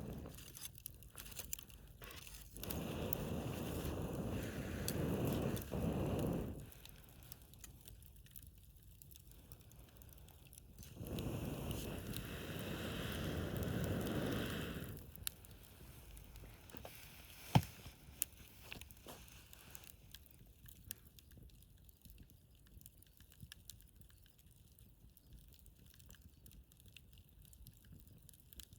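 Wood fire burning in a fire pit, with scattered crackles and pops from the burning wood and one sharp, loud pop a little past halfway. Two stretches of louder rushing noise, a few seconds each, come in the first half.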